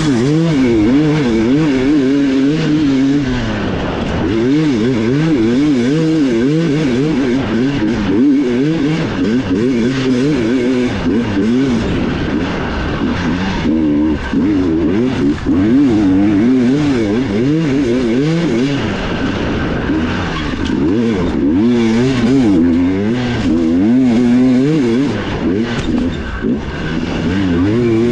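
Enduro dirt bike engine revving hard and constantly, its pitch rising and falling over and over with throttle and gear changes.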